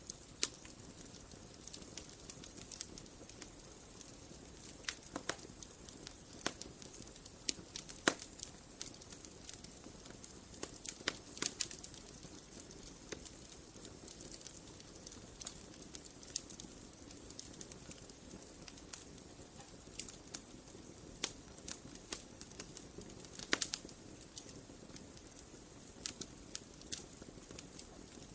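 Wood fire crackling: irregular sharp pops and snaps of burning wood over a faint steady hiss, with a few louder snaps scattered through.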